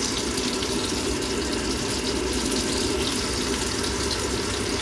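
Tap water running steadily into a kitchen sink.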